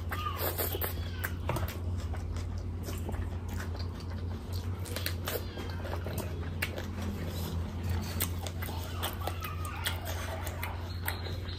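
Close-miked wet chewing, lip-smacking and finger-sucking of oily mutton curry and bhatura, many small irregular clicks and smacks, over a steady low hum.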